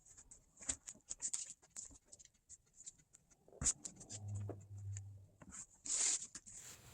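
Upholstery material pieces being handled and shuffled on a worktable: scattered light rustles, taps and small clicks, with a longer rustle about six seconds in and a brief low hum a little before it.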